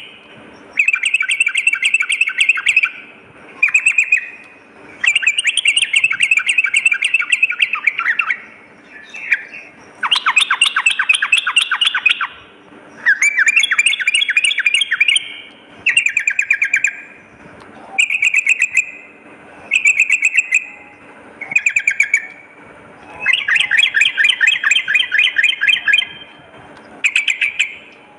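Yellow-vented bulbul (trucukan) singing: a string of bubbly phrases of rapid notes, each lasting from half a second to about three seconds, with short pauses between them.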